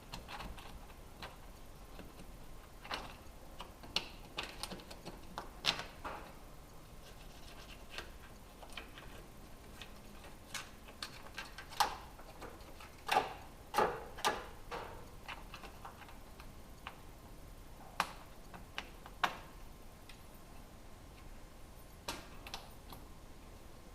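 Scattered light clicks and taps, irregular and in small clusters with pauses between, the loudest bunched together a little past the middle.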